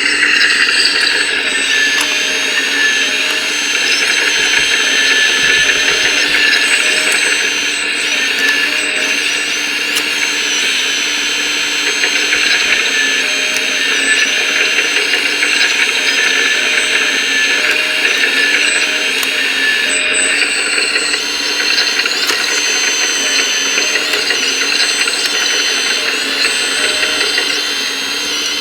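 Electric motors and gears of a 1:14-scale radio-controlled construction machine running continuously with a mechanical whine. The pitch dips and rises in places as the machine works.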